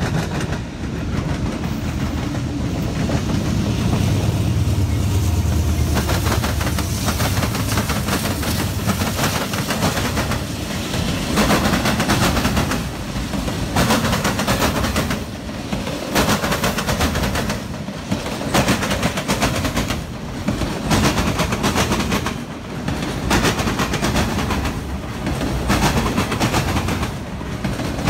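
Freight train passing close by, loaded auto rack cars behind the diesel locomotives. A heavy diesel locomotive rumble fills the first several seconds. After that the wheels clatter over rail joints in a steady repeating rhythm, with loud clicks every second or so.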